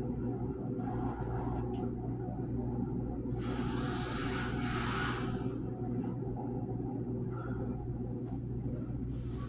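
GE dishwasher running with a steady low hum, the unwanted noise it is being checked for. A hiss rises over the hum for about two seconds near the middle.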